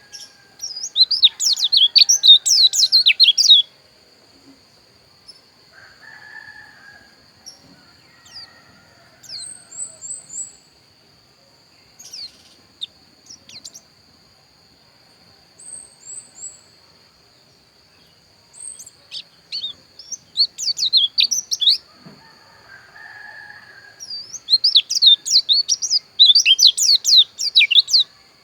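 Pleci dakun, a white-eye songbird, singing in rapid high twittering phrases: three long bursts of a few seconds each, with short single chirps in between. A steady high-pitched whine runs underneath.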